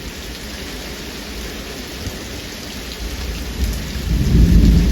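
Steady rain from a thunderstorm, with scattered drops ticking on a surface. A low rumble of thunder builds from about three seconds in and is loudest near the end.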